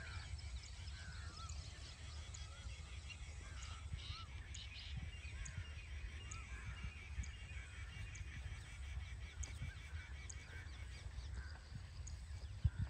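Birds calling in a scatter of short chirps that rise and fall in pitch, over a low steady rumble.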